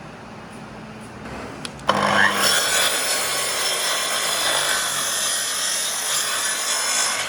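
A power tool working wood: a sharp knock about two seconds in, then a loud, steady noise as the tool bites into the wood.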